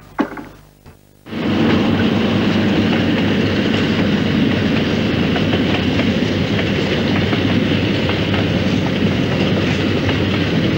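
The Ghan passenger train running along the line, a steady loud rumble that cuts in abruptly about a second in.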